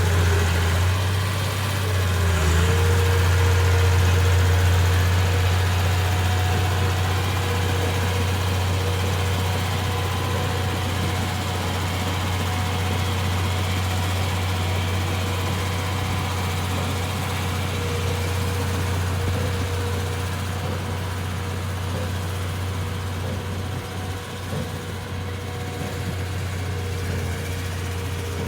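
A heavy-equipment diesel engine running steadily with a deep drone. A whine steps up slightly in pitch about two and a half seconds in.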